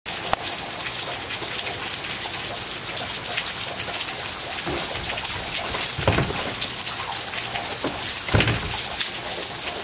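Steady rain falling, with many small close drops ticking. About six and eight and a half seconds in, two heavier drops land louder and deeper close by.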